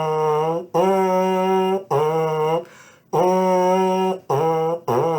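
Brass mouthpiece buzzed by the lips alone, with no instrument attached, playing a simple tune of held notes that step back and forth between a higher and a lower pitch. There are short breaks between the notes and a longer pause about three seconds in.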